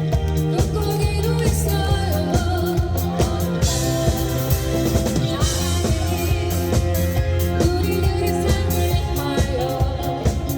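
Live rock band playing a pop-rock song with a singer, drum kit, bass and guitar; a cymbal wash swells in the middle.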